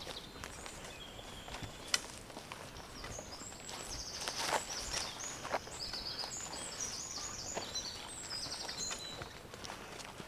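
Footsteps on the forest floor, in scattered light steps, with a sharp click about two seconds in. A small songbird sings high, fast, repeated chirps and trills through the middle.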